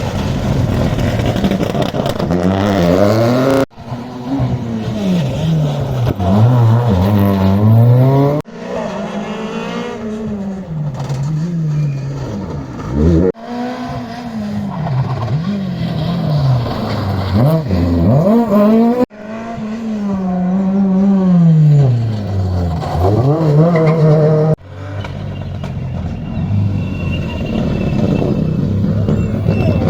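Rally cars at speed on a special stage, engines revving hard up through the gears and dropping on lift-off and downshifts into corners. The sound comes in five or six short takes, each cut off abruptly and replaced by another car's engine.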